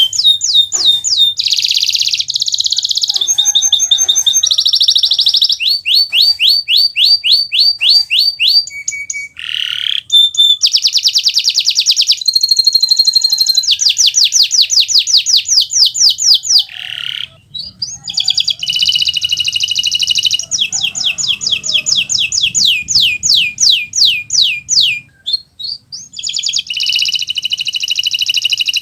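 Kenari Nusantara domestic canary in full song: a long, loud, high-pitched run of rapid trills and rolled phrases of repeated notes, switching phrase every second or two, with only brief breaks.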